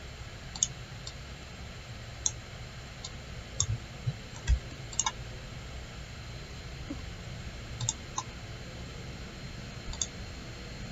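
Computer mouse clicking at an irregular pace, about a dozen sharp clicks with a few quick double-clicks, over a steady low hiss and hum.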